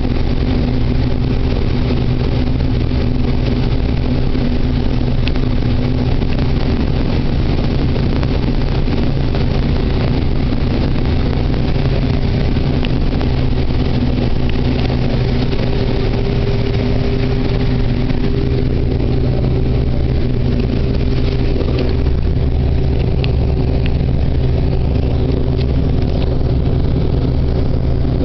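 Case IH combine harvester working in corn, its engine and machinery running steadily with a constant low hum and a few faint ticks now and then.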